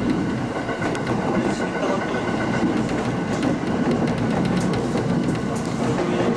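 Electric local train running along the track, heard from inside the carriage: a steady rumble of wheels on rail with a faint steady whine and occasional clicks from the rail joints.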